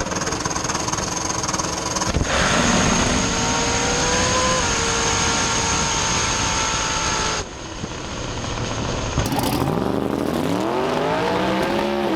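Drag-race car engines at the track, heard across several quick edited clips. Near the end an engine revs up and back down several times, its pitch climbing and falling.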